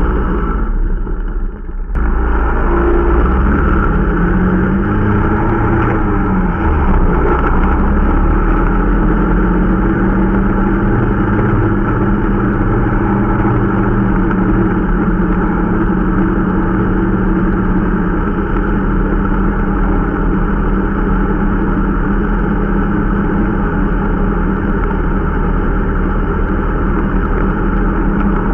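Irbis Dingo T125 snowmobile's small single-cylinder engine running under way during its break-in, briefly dipping near the start, then the pitch rising and shifting with the throttle before holding fairly steady.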